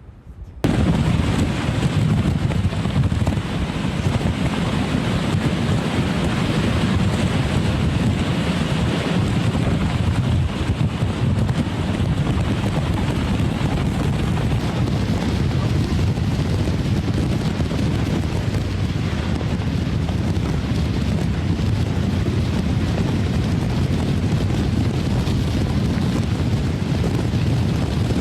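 Hurricane Michael's winds at landfall: a loud, unbroken rush of storm wind buffeting the microphone, heaviest in the low range. It cuts in suddenly about half a second in and holds steady throughout.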